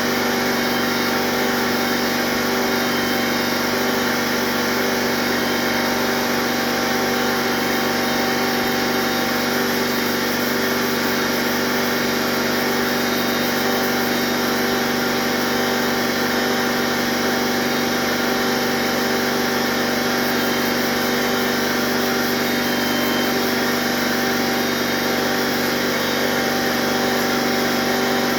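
A motor running steadily, a constant hum with a few fixed tones that neither rises nor falls.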